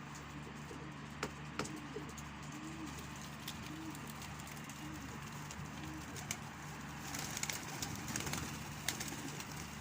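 Domestic pigeons cooing, a run of low, repeated rising-and-falling coos, with scattered sharp clicks, most of them bunched in the last few seconds.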